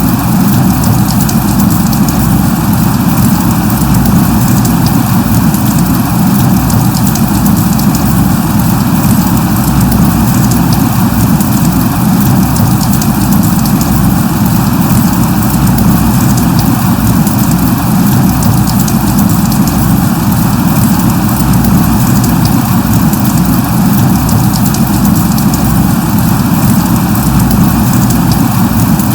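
Steady light rain: an unbroken hiss with fine scattered drop ticks over a heavy low rumble, unchanging throughout.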